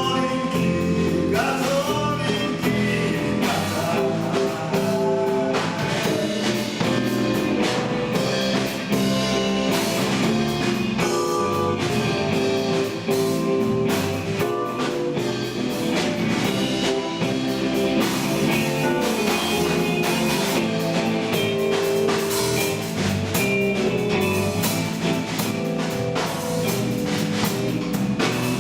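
Rock band playing a song: a voice singing over guitar and a drum kit keeping a steady beat.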